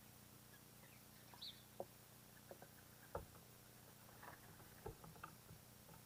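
Near-silent outdoor ambience with a faint low hum, a few soft scattered ticks, and one short high bird chirp about a second and a half in.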